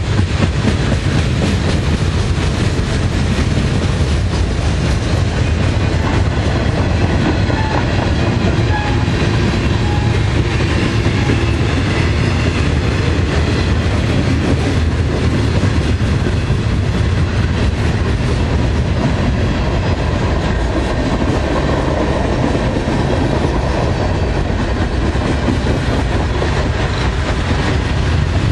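Freight cars (centerbeam lumber flatcars and boxcars) rolling past close by: a loud, steady rumble of steel wheels on rail, with clicking as the wheels pass over the track.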